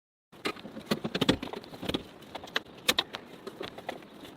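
Irregular clicks, knocks and light rattles of camping gear being handled and packed away. They start just after a brief moment of dead silence.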